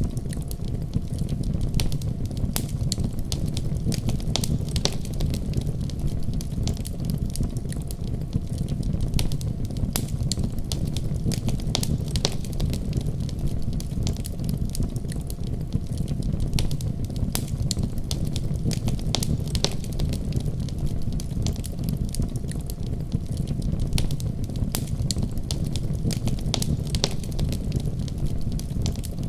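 Wood fire burning with a steady low rumble of flames and frequent sharp crackles and pops.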